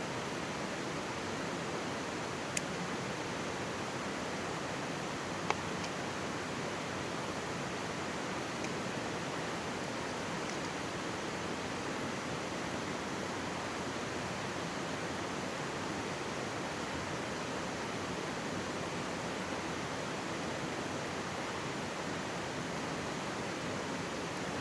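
Mountain stream rushing steadily right beside the microphone, with two sharp pops from a wood campfire a few seconds in.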